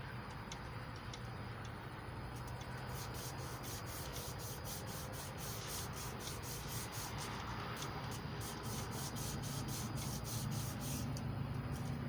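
Medium-grit emery cloth rubbing on a Chevy 350 crankshaft journal as it is polished, quickening into rapid back-and-forth strokes, about three to four a second, from about three seconds in.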